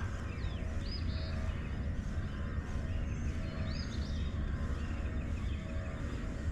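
Outdoor ambience of birds giving short, hooked chirps, several times, over a steady low rumble.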